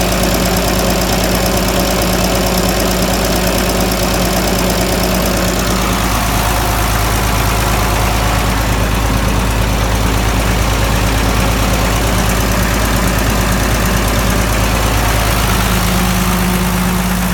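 Case 930 tractor engine running steadily at idle, its note changing slightly about six seconds in and returning near the end.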